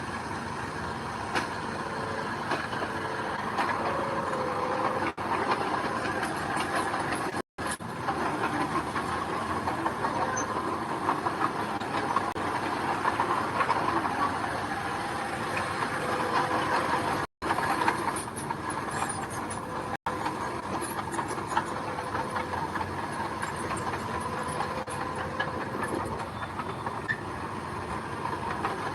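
Heavy diesel earthmoving machinery running steadily under load, its engine noise continuous apart from two brief dropouts, about a quarter and about three-fifths of the way through.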